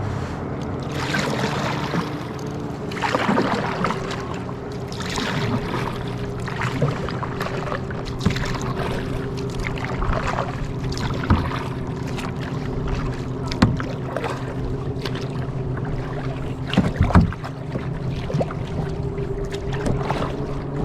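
Kayak paddle strokes dipping and splashing in lake water, about one every one to two seconds, with a few sharp knocks of the paddle against the hull. A steady low hum runs underneath.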